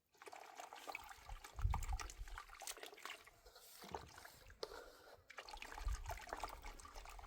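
Water being poured and sloshing into a plaster mix, trickling irregularly, with a couple of low thuds.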